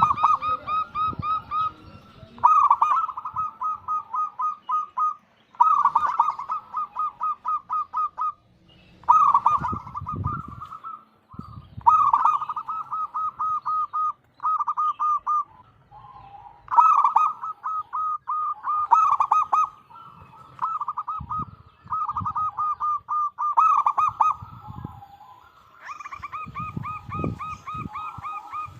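Zebra dove (perkutut) singing: phrase after phrase of quick, evenly repeated cooing notes, each phrase two to three seconds long, with short pauses between.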